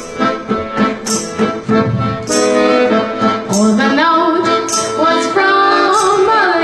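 Accordion playing a rhythmic folk-song accompaniment, with a woman's singing voice joining it in the second half.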